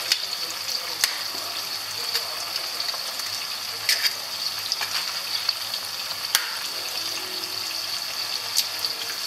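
Lardons frying in hot oil in a pan as raw eggs are broken into it: a steady sizzle with sharp pops every second or two.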